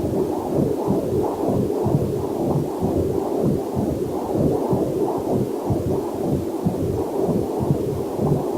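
Heartbeat picked up by a fetal Doppler heart monitor: a rhythmic muffled whooshing pulse, about two to three beats a second.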